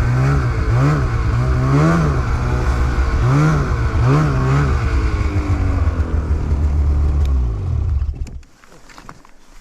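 Snowmobile engine revving up and down several times under throttle, then holding a high steady note before the throttle is let off about eight seconds in and the engine drops away to a quiet idle.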